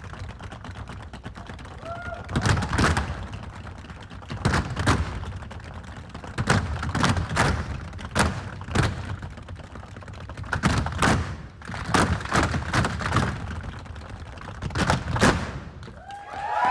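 Percussive hits from dancers stamping and striking on a stage, with no music. They come as sharp knocks in short clusters of two to four, every second or two.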